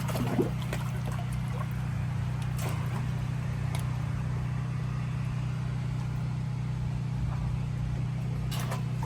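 Steady low machine hum, unchanging throughout, with a few faint ticks.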